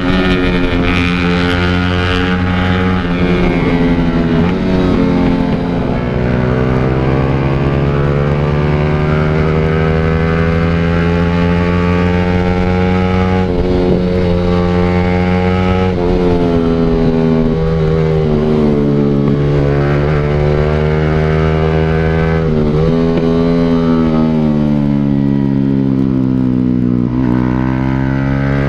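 Motorcycle engine through an aftermarket exhaust while riding, its pitch climbing and dropping again and again with throttle and gear changes.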